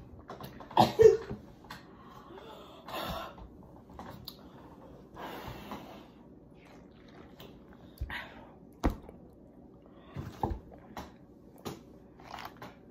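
Eating and table sounds: scattered light taps and a few sharp knocks, with breathing and a short loud vocal sound about a second in, a reaction to the burn of extra-hot chips.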